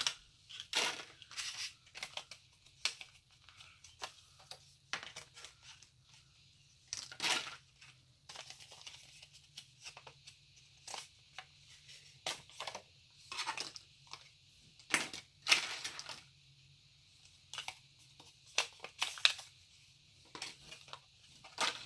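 Plastic pencil packaging being handled and opened: irregular crinkling and rustling with sharp clicks, coming in scattered bursts.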